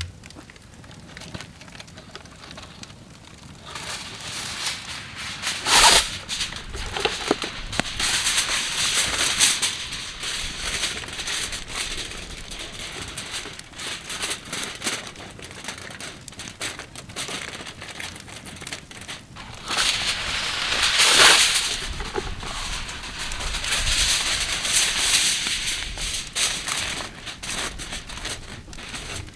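Campfire crackling: a steady hiss with many small sharp pops, surging louder briefly about six seconds in and again about two-thirds of the way through.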